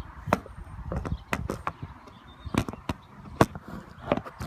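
About a dozen irregular sharp knocks and clicks, unevenly spaced, over a low rumble.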